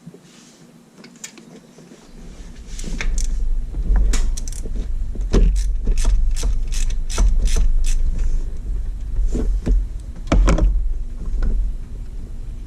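Hand ratchet clicking in quick series of sharp clicks, about three a second, over a steady low rumble that starts about two seconds in.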